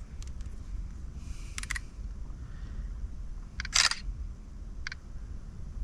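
A few short, sharp clicks: a quick double click, then a louder one, then a faint one, over a low steady rumble.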